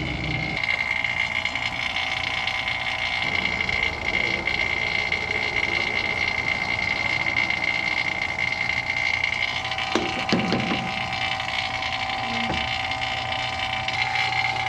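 Refrigeration vacuum pump running steadily as it evacuates a refrigerant system, with a steady high-pitched tone over the motor noise. A couple of short knocks come about ten seconds in.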